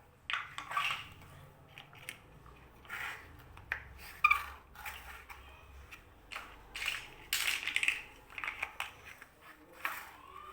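Plastic Lego bricks rattling, clicking and scraping in irregular bursts as they are handled and pressed together, with one sharp click about four seconds in.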